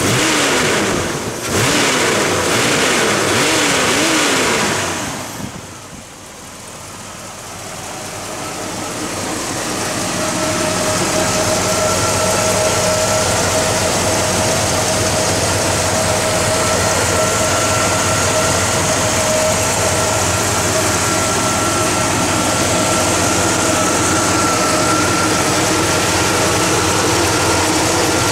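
1970 Buick GS 455 Stage 1 V8 revved in a series of quick blips, the pitch rising and falling several times. After a short dip it settles into a steady idle with a thin steady whine over it.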